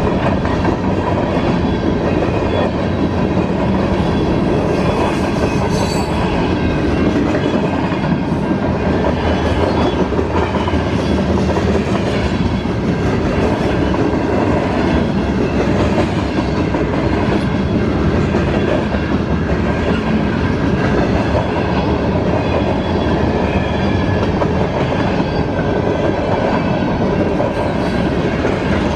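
Freight train cars rolling steadily past at close range: a continuous rumble of steel wheels on rail with rapid clickety-clack over the rail joints.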